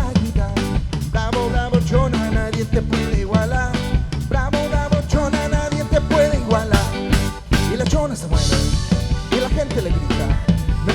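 Live band playing an upbeat instrumental passage of a cumbia-style song, with a steady drum beat under melody lines, amplified through a PA system.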